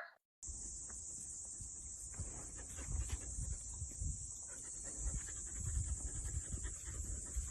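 A moment of silence, then faint animal sounds over a steady high hiss, with soft, irregular low thumps.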